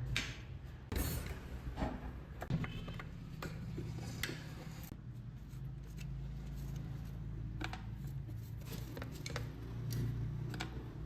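Scattered light clicks and metallic clinks of tools and ceiling-fan parts being handled, over a steady low hum.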